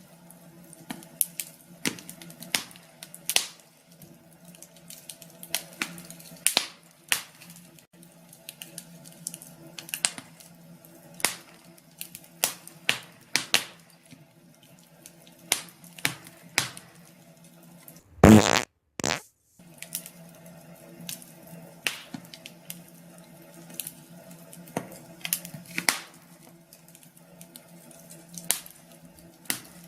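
Wood fire in a fireplace crackling, with irregular sharp pops over a faint steady hum. About eighteen seconds in comes one much louder burst lasting about half a second, followed by a brief cut to silence.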